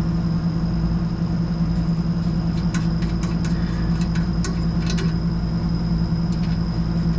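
Air conditioner outdoor unit running with a steady low electrical hum and a faint high whine. The compressor is stalled out on its thermal overload. A few light clicks and taps come in the middle.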